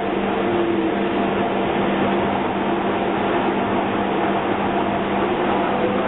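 Docklands Light Railway train running, heard from inside the car at its front window: a steady noise of wheels on track with a steady low hum beneath it.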